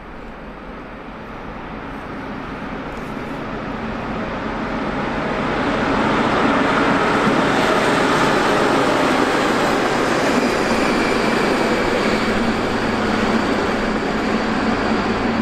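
A train approaching and running past on the rails: rumble and wheel-on-rail noise swell over about six seconds, then hold loud and steady.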